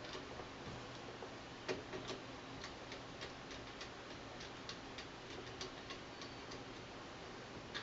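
Faint, irregular small clicks and ticks of a heating-cable load wire being fastened into a screw terminal on a controller circuit board, with the clearest click about a second and a half in.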